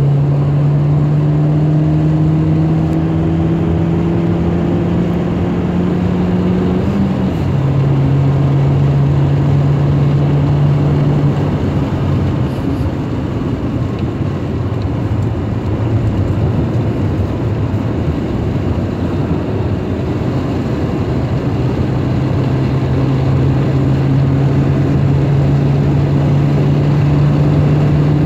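Volkswagen Scirocco's engine heard from inside the cabin, over steady road and tyre noise. The engine climbs in pitch under acceleration, then drops suddenly about seven seconds in at a gear change, and climbs again near the end.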